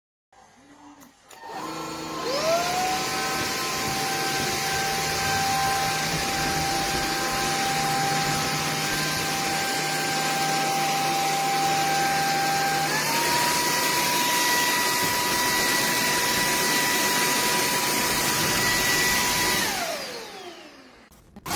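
SKIWEC cordless stick vacuum cleaner switched on, its motor whine rising to speed, then running steadily with a loud airflow hiss. About halfway through, the motor steps up to a higher speed, and near the end it is switched off, the whine falling as it winds down.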